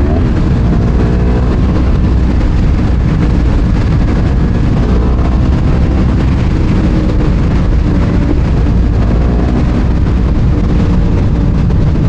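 Sport bike engine running steadily under way, loud and close to the camera, its pitch shifting slightly near the start and again near the end.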